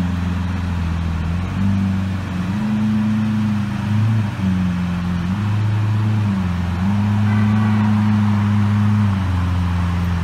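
Lamborghini Aventador's 6.5-litre V12 idling, a steady low drone whose pitch steps up and down between two levels every second or two.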